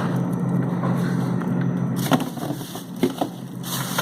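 Steady low hum with a few light knocks and clatters in the second half, from items being handled in an open freezer.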